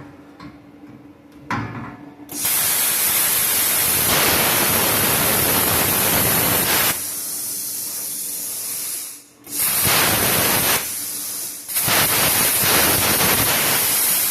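Bestarc plasma cutter cutting through a truck's steel exhaust pipe with the new tip just fitted: a loud, harsh hiss that starts abruptly about two seconds in. It comes in three long bursts, dropping to a softer hiss or nearly stopping between them as the trigger is let off and pulled again.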